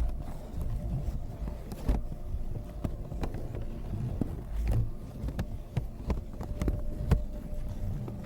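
Close-miked ASMR trigger sounds: irregular taps, clicks and scratches by hand on an object, either the bag or the pine wood, over a low handling rumble.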